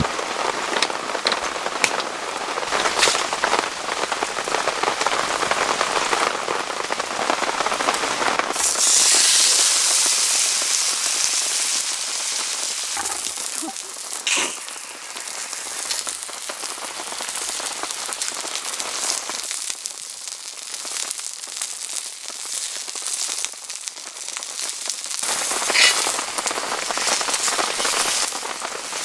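Heavy rain falling and pattering steadily on surfaces. Its character shifts about a third of the way through, becoming hissier, and there are a few sharp drip-like clicks.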